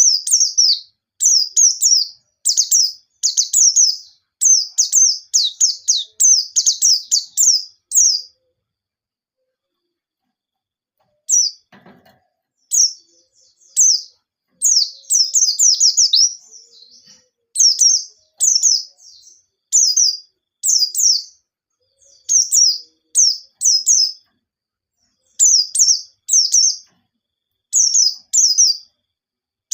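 White-eye (pleci) singing lively, fast runs of high chirping trills, phrase after phrase, with a pause of about three seconds roughly a third of the way in.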